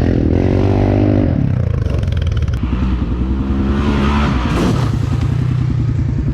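Four-wheeler (ATV) engine revving up twice, once right at the start and again around three to four seconds in, then settling to a lower, steady pulsing run.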